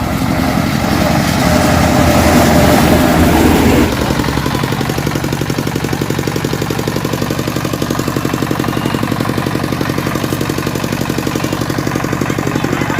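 A small engine running close by with an even, rapid beat. It is louder for the first four seconds, then drops a little and settles into a steady run.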